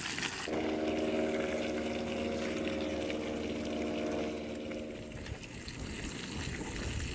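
A steady motor hum at one even pitch starts suddenly about half a second in and fades out around five seconds in.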